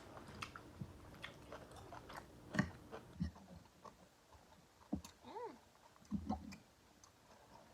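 Close-miked chewing and wet mouth clicks of someone eating, with a few louder bites around two and a half, three and five seconds in, and a brief rising-and-falling pitched mouth sound a little after five seconds.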